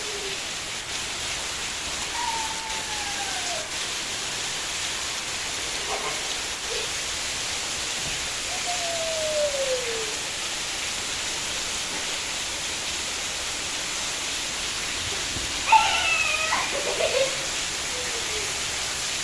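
Heavy rain falling in a steady hiss. Twice a drawn-out call falls in pitch over it, and a louder call with several tones comes about three-quarters through.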